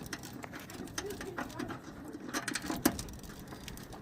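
Pigeon cooing in low wavering notes, with scattered sharp clicks and taps from hand-tool work on the truck's front end, the loudest a little before the end.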